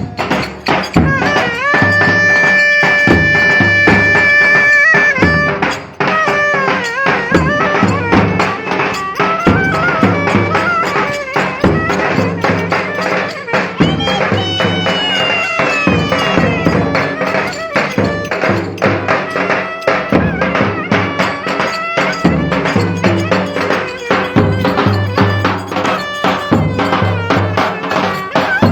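Live Turkish folk dance music: a pitched melody line over a fast, steady drum beat, with a long held note near the start and a bending, sliding phrase about halfway through.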